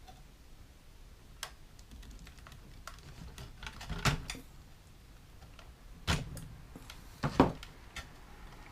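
Wire stripper snapping as thin wires are stripped: a few sharp clicks, a faint one early and louder ones about four seconds in and twice near the end.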